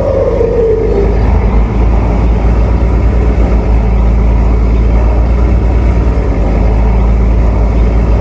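Tugboat's diesel engine running steadily with a deep, loud rumble. A brief falling whine comes in the first second.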